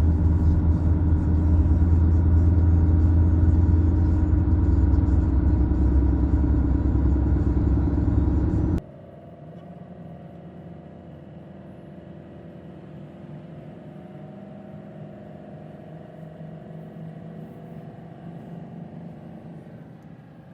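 Steady low road rumble of a car driving at speed, heard from inside the cabin. About nine seconds in it cuts off abruptly, leaving a much quieter steady background hum.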